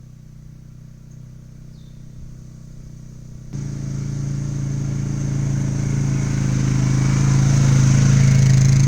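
ATV engine running at a steady speed, quiet at first, then jumping suddenly louder about three and a half seconds in and growing steadily louder from there.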